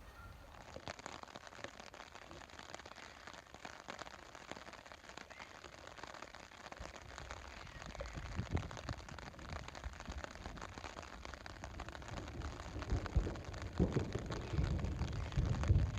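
Rain pattering steadily as a dense crackle of drops, with low rumbling thumps building in the second half and strongest near the end.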